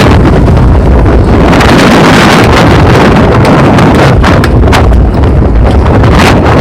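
Strong wind buffeting the microphone in a loud, continuous rumble, with a few sharp gust pops after about four seconds.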